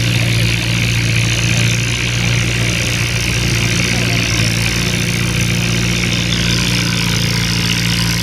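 Antique farm tractor engine running steadily at an even speed, with no revving.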